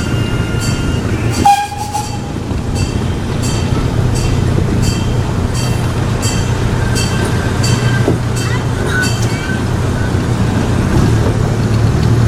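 Park excursion train running along its track: a steady engine drone with a regular click about every two-thirds of a second, typical of wheels crossing rail joints. A single sharp clack comes about a second and a half in.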